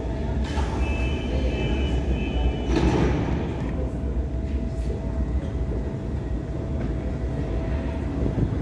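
Local passenger train at a station platform, a steady low rumble with a constant mid-pitched hum. A high tone is held for about two seconds near the start, followed by a brief rush of noise.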